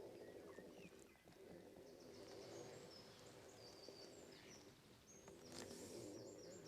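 Faint birdsong: runs of short, quick, high chirps from a small songbird over a low steady background noise.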